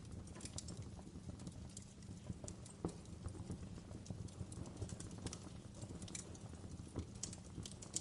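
Wood fire burning with a low steady rumble and irregular sharp crackles and pops, several a second.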